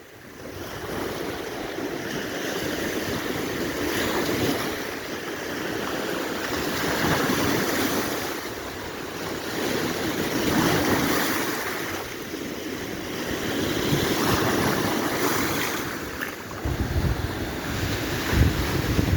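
Baltic Sea surf: waves breaking and washing up the shore, swelling and ebbing every few seconds. Wind buffets the microphone near the end.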